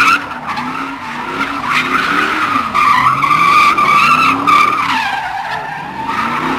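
Dodge Hellcat spinning its tires in a burnout or drift: a sustained, loud tire squeal, with the engine revving up and down beneath it.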